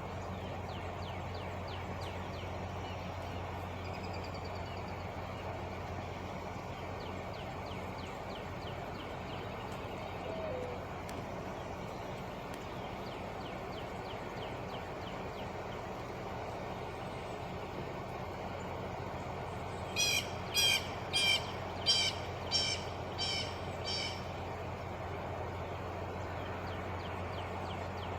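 A bird gives a quick series of about seven harsh calls, the loudest sound here, over a steady low hum and faint small bird chirps.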